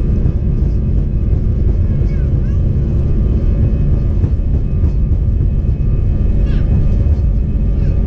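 Airbus A321 jet engines and airflow heard from inside the passenger cabin: a loud, steady, deep rumble.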